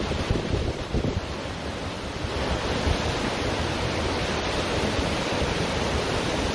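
Ocean surf on a beach: a steady wash of waves that swells up about two seconds in as a wave breaks and runs in, with wind buffeting the microphone.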